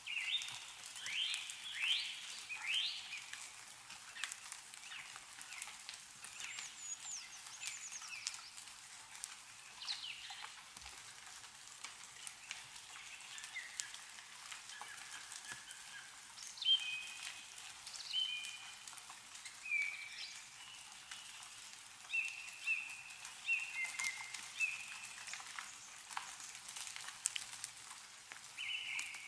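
Meltwater dripping and pattering from snow-covered trees, a steady crackly hiss of many small drops, with birds calling over it: a run of quick sweeping chirps in the first few seconds and a series of short whistled notes in the second half.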